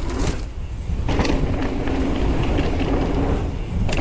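Mountain bike rolling fast down a dirt trail: tyres rumbling over the ground, with the bike's chain and frame rattling and clicking over bumps, and wind on the microphone. A steady hum joins about a second in.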